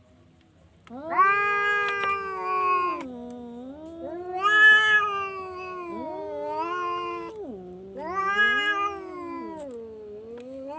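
Domestic cat yowling in long, drawn-out meows that rise and fall in pitch. The calls start about a second in and run together almost without a break.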